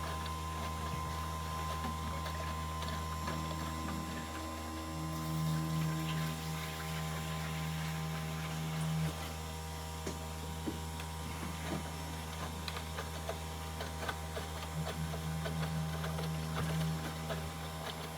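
Aidoo 1 kg mini washing machine's pump running with a steady hum. The hum swells louder about five seconds in and again near the end. The owner finds the pump is not working as it should.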